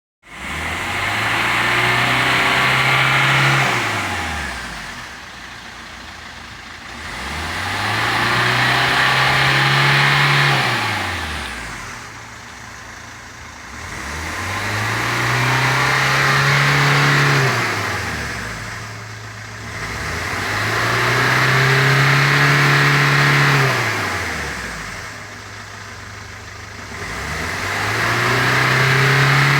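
Corsa 1.3 CDTI four-cylinder turbodiesel being revved during an engine carbon clean: five times the revs rise, hold for two or three seconds and drop back to idle, with a hiss that swells with each rev.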